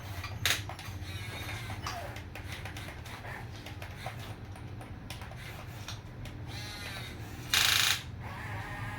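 Small electric gear motors of a remote-control toy construction vehicle whirring, with scattered plastic clicks and ratcheting over a steady low hum, and one loud short burst of noise near the end.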